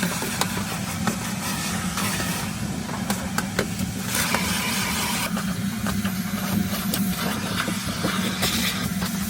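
A steady low mechanical hum, like a motor or engine running, with scattered clicks and taps over a constant hiss.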